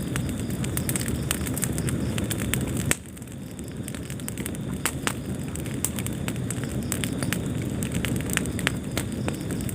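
Wood fire burning in a fireplace: a steady low rumble of flames with frequent sharp crackles and pops. The rumble drops suddenly about three seconds in, then builds back up.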